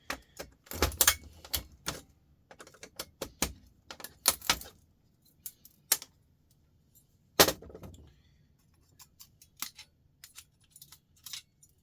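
Irregular sharp clicks and metallic clinks of hand tools on small metal parts while silver contacts are pried out of a scrap electrical part. The loudest knocks come about a second in, around four and a half seconds and around seven and a half seconds.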